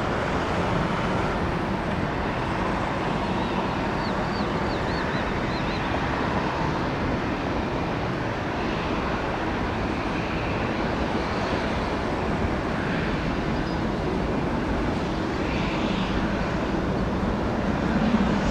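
Steady even rumble and hiss of jet aircraft engines at an airport, with no rise or fall, and a few faint high chirps about four seconds in.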